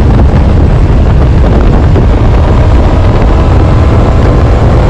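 Honda CB1000R motorcycle under way: heavy wind rush over the helmet microphone mixed with engine and road noise, steady and loud, with a faint tone slowly rising near the end.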